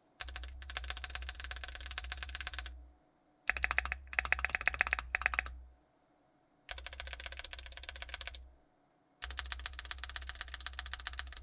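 Typing on an Emotoys Tyche75 gasket-mount mechanical keyboard with stock Keyfirst Bling Purple switches, a polycarbonate plate and ABS doubleshot keycaps. Four bursts of fast typing with short pauses between them; the second burst has the loudest single clacks.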